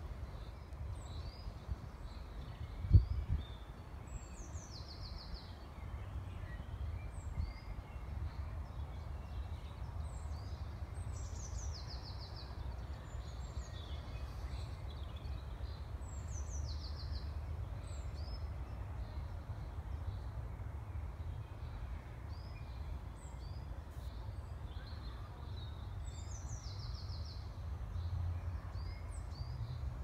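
Songbirds singing in woodland, one bird repeating a short song that ends in a rapid trill every six seconds or so, over a steady low rumble. A single dull thump about three seconds in is the loudest sound.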